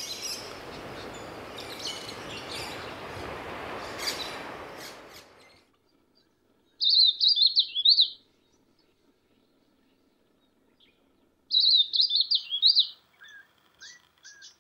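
A steady rushing noise for about the first five seconds, then small birds giving quick, high warbling chirps in two short bouts, with a few brief chirps near the end.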